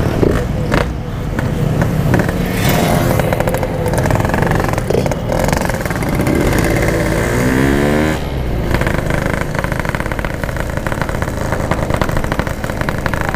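Yamaha RX-King two-stroke motorcycle engine running under way, rising in pitch as it revs up about seven seconds in.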